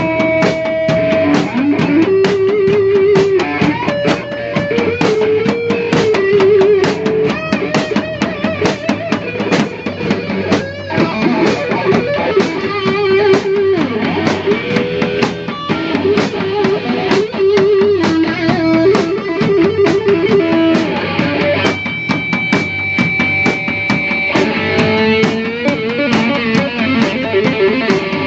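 Improvised rock jam: electric guitar playing held, wavering lead notes over a drum kit and bass guitar.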